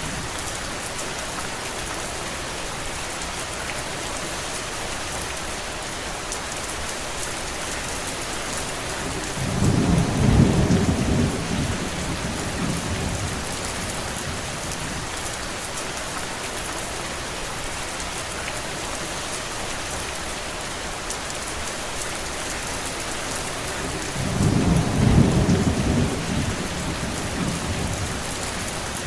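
Steady rain hissing and pattering. Twice, about ten seconds in and again near twenty-five seconds in, a deep low rumble swells up for a couple of seconds and fades.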